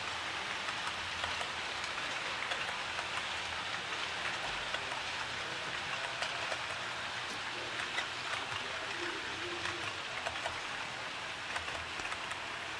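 Model train rolling along the track: a steady hiss sprinkled with many small, irregular ticks from the wheels.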